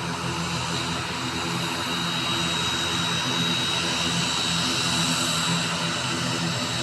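ATR 72-600 turboprop airliner's engines running steadily: a high turbine whine over a rushing noise and a low propeller drone that beats slowly, swelling and fading about once a second.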